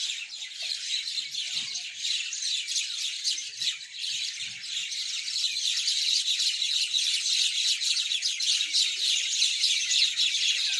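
A flock of mynas chattering, many dense overlapping chirps and squawks with no pause, growing a little louder about halfway through.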